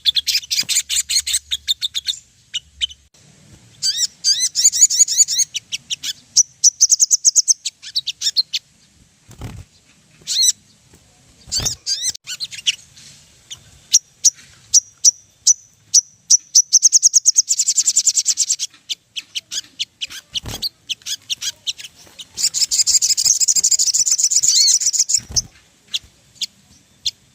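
Sogon songbird singing in bursts of rapid, high chirps and trills, with short pauses between phrases. A few faint dull knocks come in between.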